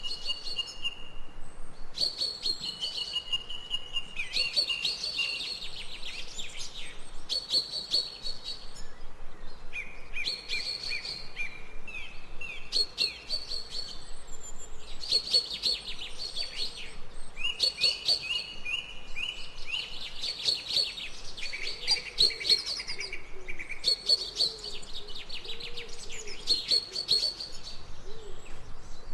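Songbirds singing in a forest: phrase after phrase of quick high chirps and short trills, repeating every couple of seconds.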